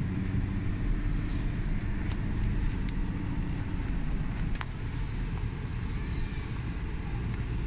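A car's engine running with a steady low hum, heard from inside the cabin, with a few faint clicks.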